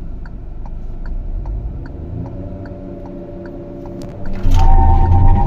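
Proton X50's 1.5-litre turbocharged three-cylinder engine heard from inside the cabin, running low with a steady ticking about two and a half times a second. About two seconds in, the revs climb a little as the throttle is held against the brake. About four and a half seconds in, it jumps to full throttle, loud, as the car launches under launch control.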